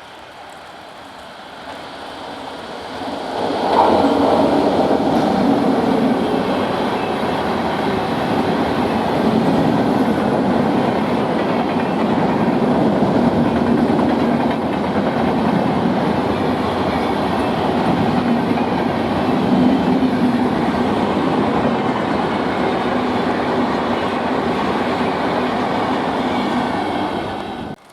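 Indian Railways express train passing at speed, its wheels clattering over the rail joints. The sound builds over the first few seconds, holds steady, and stops abruptly near the end.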